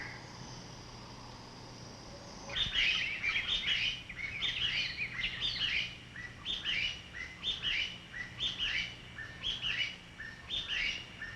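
A bird calling in a quick series of short chirped phrases, each with falling notes, beginning about two and a half seconds in and repeating steadily, one to two phrases a second.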